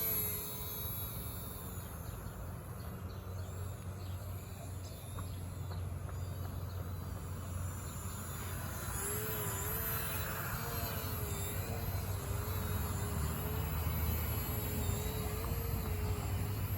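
Small electric motor of a micro RC aircraft whirring, its pitch wavering up and down as the throttle changes, clearer from about halfway through. It sits over a steady low rumble and high insect chirping.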